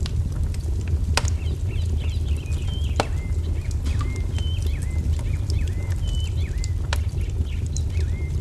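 Wood fire burning with a steady low rumble and crackle, broken by a few sharp pops. A small songbird chirps over it in repeated short, hooked notes.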